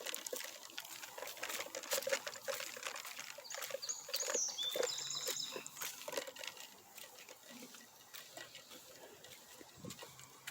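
Footsteps crunching and rustling through dry leaves and brush in the woods, busy at first and quieter in the second half. A bird sings a few short, high whistled notes about four to five seconds in.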